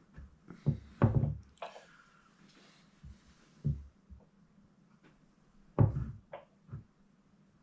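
Irregular knocks and clunks of engine parts and tools being handled and set down on a table during reassembly of a motorcycle engine's top cover, with a brief rustle about two seconds in.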